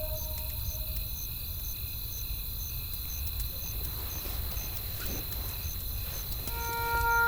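Crickets chirping at an even pace, about two short high chirps a second, over a low rumble with a few faint wood-fire crackles. A soft held musical note comes in near the end.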